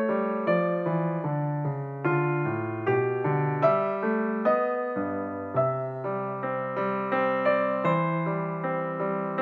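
Background piano music: a steady run of struck notes and chords, about two a second, each fading before the next.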